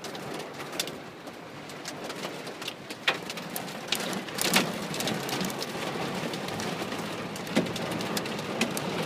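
Heavy rain and hail falling, a steady hiss of rain with many sharp, irregular clicks of hailstones striking hard surfaces.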